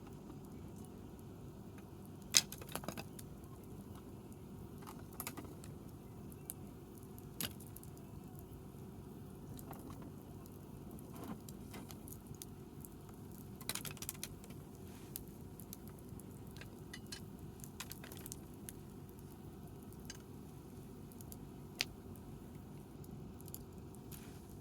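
Wood campfire crackling, with irregular sharp pops and snaps, the loudest a couple of seconds in and another near the end, over a steady low background noise.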